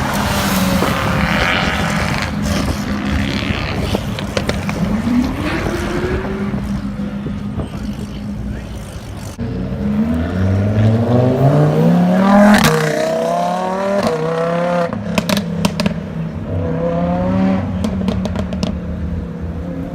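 Sports car engine idling, then accelerating hard: the engine note climbs steeply in pitch, drops at each gear change and climbs again. A few sharp exhaust cracks come partway through the run.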